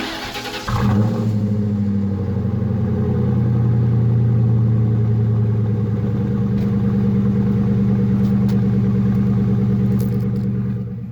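1999 Ford Mustang GT's 4.6-litre V8 cranked by the starter, catching under a second in and settling into a steady idle through its exhaust.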